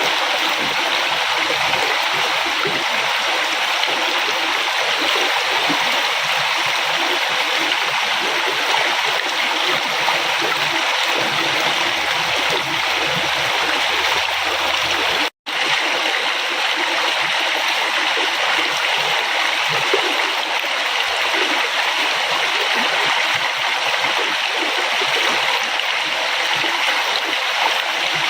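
River water flowing, a steady rush of water, broken about fifteen seconds in by a momentary cut to silence.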